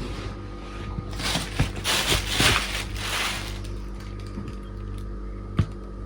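Two kittens play-fighting: a burst of scuffling and rustling starts about a second in and lasts a couple of seconds, then a single sharp knock near the end, over a steady low hum.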